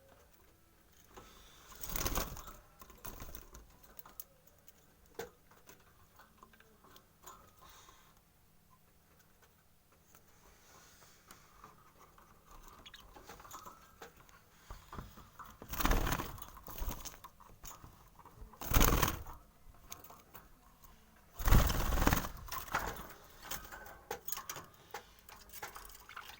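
One-month-old budgerigar chicks scratching and shuffling, with a few loud, short, noisy bursts, the longest near the end.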